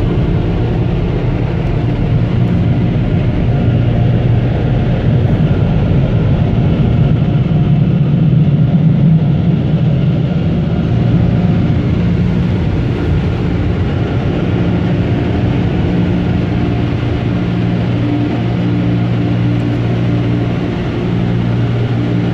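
Touchless car wash dryer blowers running, heard from inside the vehicle: a loud, steady low hum that swells a little about eight seconds in.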